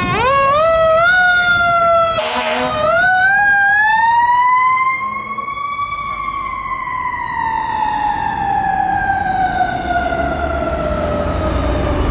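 Fire engine's mechanical siren, a Federal Q, winding up in a few quick steps, then rising to a peak and slowly coasting down in pitch. A short burst of hiss cuts in about two seconds in.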